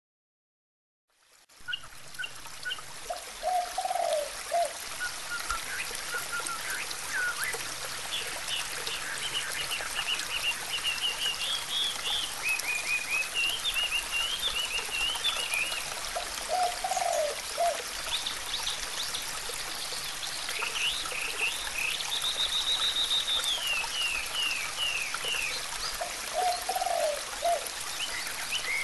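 Water trickling steadily, with birds singing high, wavering phrases over it and a lower call repeated three times. It fades in after about a second.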